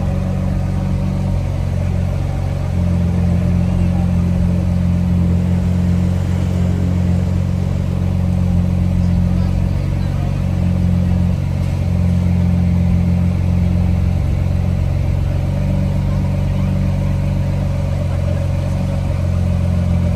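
A car engine running steadily at idle, a low even hum with no revving.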